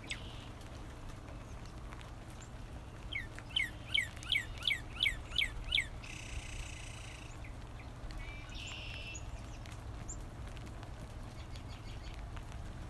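Northern cardinal song: a run of about eight clear down-slurred whistles, roughly three a second, starting a few seconds in. Two brief hissy sounds follow.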